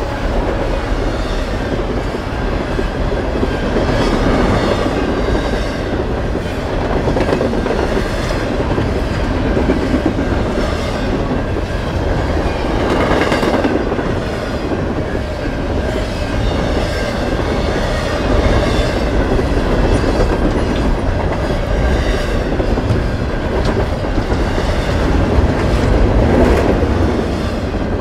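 Double-stack intermodal container train passing close by at speed: a steady rush of rolling noise from the well cars, with the wheels clicking over the rail joints.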